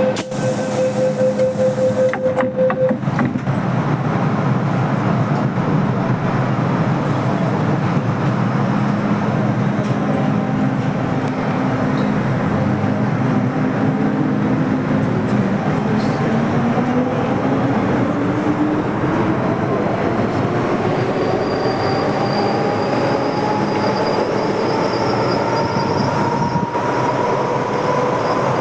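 MTR Kwun Tong line M-Train electric multiple unit heard from inside the car. It opens with a rapid string of door-closing warning beeps for about two seconds. The train then pulls away over the steady rumble of the running gear, and its traction motor whine climbs steadily in pitch as it accelerates.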